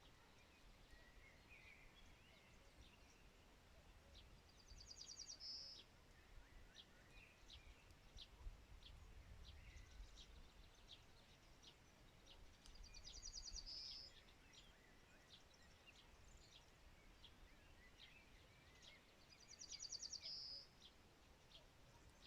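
A songbird sings the same short, high trilled phrase three times, about seven seconds apart; each phrase ends on a louder note. Brief high ticks are scattered between the phrases.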